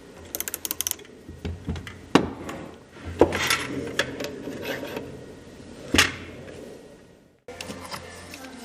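Hand tools and metal hardware being worked: a quick run of about six clicks, then several sharp metallic knocks and clinks. Music starts near the end.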